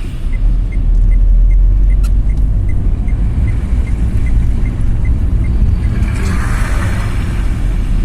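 A car driving, heard from inside the cabin: a steady low engine and road rumble. A faint regular ticking, about two or three times a second, stops around six seconds in, and a brief hiss rises near the end.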